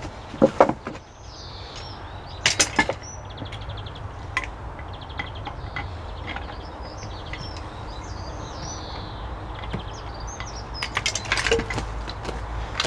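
Wooden blocks being handled and knocked, with sharp knocks about half a second in, around the three-second mark and several near the end. Songbirds chirp and trill throughout over a steady low rumble.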